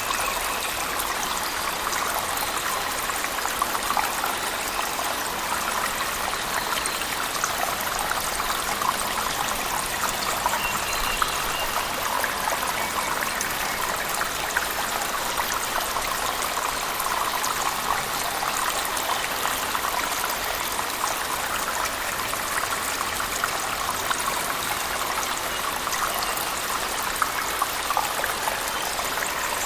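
Steady rush and splash of a cave waterfall mixed with heavy rain: an even wash of falling water, flecked with small drip and splash sounds.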